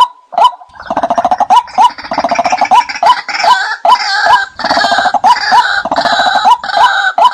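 Watercock calling: a regular series of short hollow notes, about two to three a second, joined about a second in by a dense, rapidly pulsing call that runs until just before the end.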